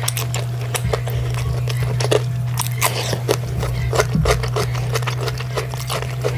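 Close-up chewing of a mouthful of chicken and rice: irregular wet clicks and smacks of the mouth. A steady low hum runs underneath.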